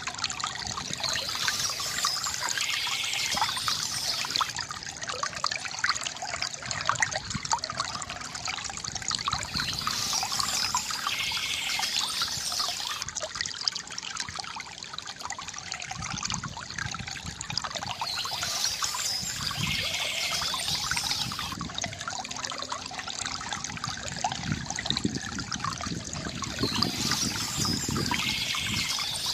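Shallow stream trickling and babbling steadily over stones, with a brighter, higher wash returning about every eight to nine seconds.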